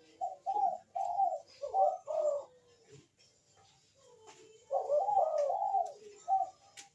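Barbary dove (burung puter) cooing in two phrases of several coos each. The first phrase starts just after the beginning, and the second comes after a pause of about two seconds.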